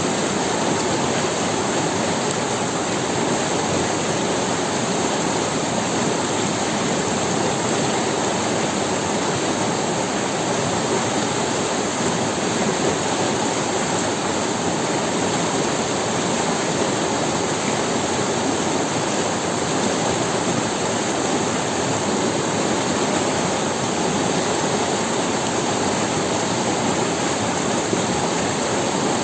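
River water running steadily over stones, an even, unbroken rush.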